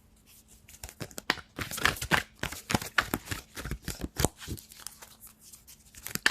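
A deck of oracle cards being shuffled and handled: a quick, irregular run of crisp flicks and rustles of card stock, starting about a second in.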